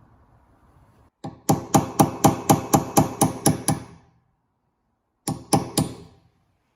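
Hammer striking metal with a ringing tone: a single blow, then a quick run of about ten blows at roughly four a second, and after a pause two more.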